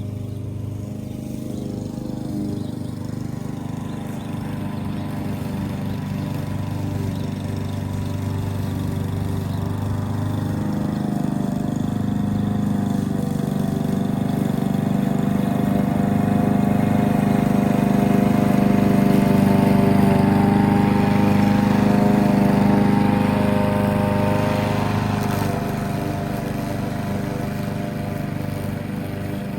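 Lawn mower engine running steadily, growing louder toward the middle and then easing off again.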